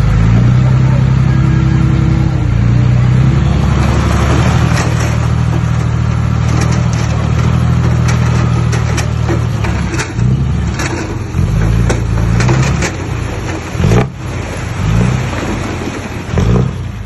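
Heavy diesel engine of earthmoving machinery running hard under load, with clanking and rattling over it. After about ten seconds the engine note turns uneven, rising and falling, with sharp knocks in between.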